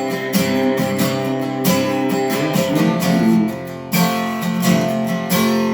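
Acoustic guitar strummed in a steady country rhythm, an instrumental interlude with no singing; the playing eases briefly about three and a half seconds in, then picks up again with a strong strum.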